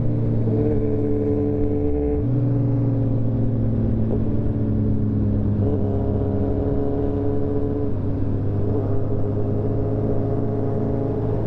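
Sport motorcycle engine running steadily at cruising speed, with a brief dip in revs about two seconds in before it settles back to the same steady note.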